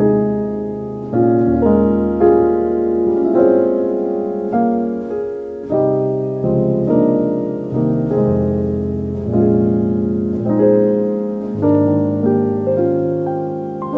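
Slow, calm piano music: single notes and chords struck about once or twice a second, each ringing and fading. No rain is heard over it.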